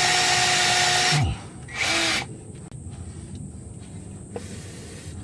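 Pistol drill with a cobalt steel bit cutting into a broken hardened-steel easy out (screw extractor) in a snapped exhaust stud. It runs steadily with a whine, stops a little over a second in with the motor winding down, gives one short burst about two seconds in, then goes quiet. The cobalt bit is making short work of the hardened extractor.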